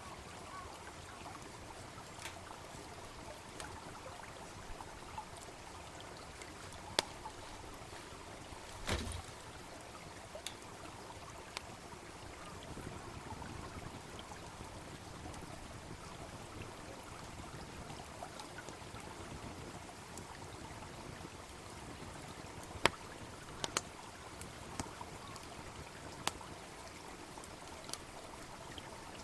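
Wood fire crackling, with scattered sharp pops (the loudest about 23 seconds in) and a duller thump about 9 seconds in, over the steady babble of a small brook.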